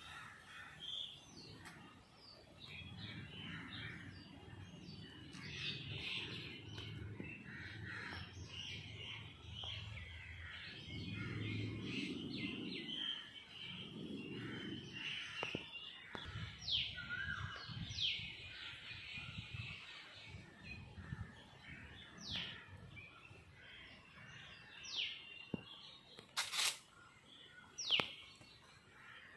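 Birds chirping and calling, many short chirps throughout, with a few sharp, falling whistled calls in the last few seconds. A low rumble runs under the first half.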